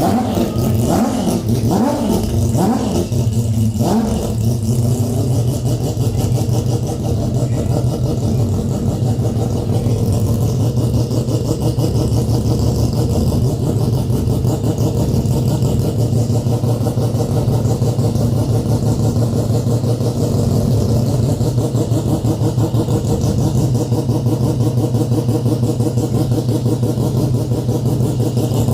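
An engine, just started, runs unevenly with surging pulses for the first few seconds, then settles into a steady idle.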